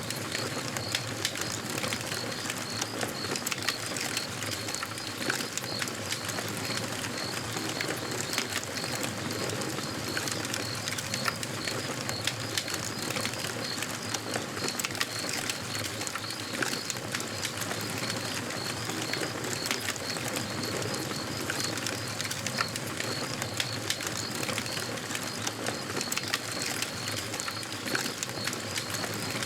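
Campfire crackling and popping, a steady hiss of burning wood dotted with frequent sharp snaps. A steady high-pitched chirp pulses evenly in the background.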